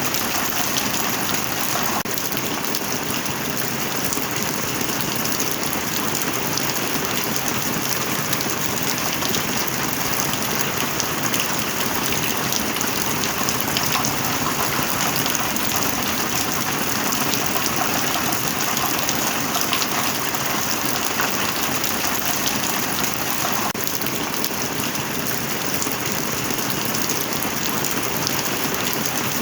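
Heavy rain falling steadily, a dense even hiss of countless drops hitting a surface, with no break or change in strength.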